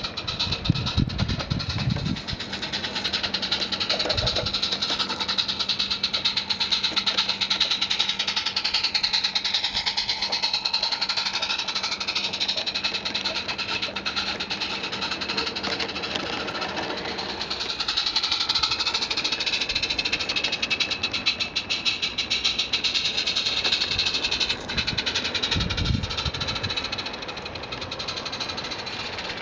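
A 16mm-scale garden railway train running along the track: a fast, even clatter, with a whine that rises and falls in pitch. Low thuds come about a second in and near the end.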